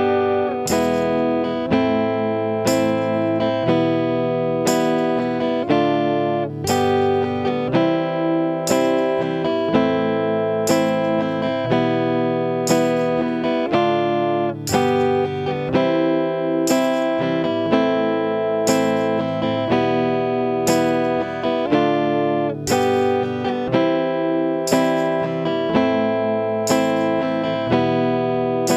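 Guitar playing a song's chord accompaniment with the vocals removed, a chord struck about once a second and left to ring.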